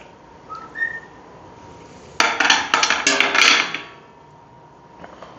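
A starling gives two short whistles, the second higher than the first. Then rocks clatter and rattle together into a pot for about a second and a half.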